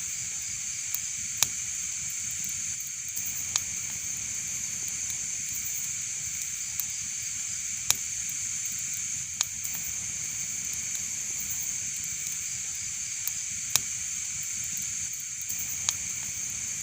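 Wood fire burning in a fireplace: a steady hiss with about ten sharp crackles and pops at uneven intervals.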